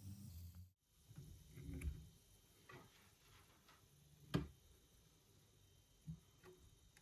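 Faint, scattered clicks and knocks from handling small metal tool parts on a workbench, the sharpest about four and a half seconds in.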